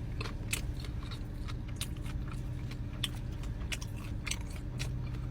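Close-up chewing of a loaded nacho chicken sandwich: wet mouth clicks and smacks at an irregular pace, over a steady low hum.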